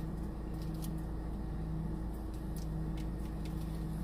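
Steady low hum of an idling car, heard inside the cabin, with a few faint clicks over it.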